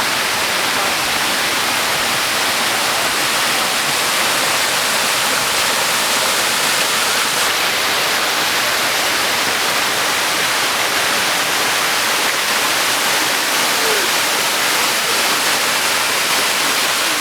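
Waterfall pouring, a loud, steady rush of falling water with no change in level.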